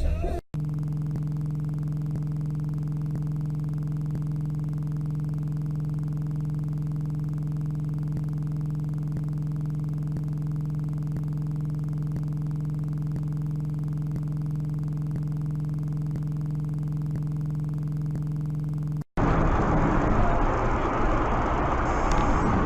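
A steady low mechanical hum holding one unchanging pitch. About nineteen seconds in it is cut off by louder, noisier vehicle sound.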